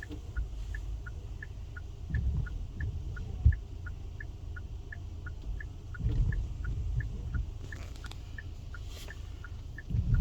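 Low rumble of a car in the snow, swelling at times, with one sharp knock about three and a half seconds in, over a steady chain of short high pips, about two and a half a second, alternating between two pitches.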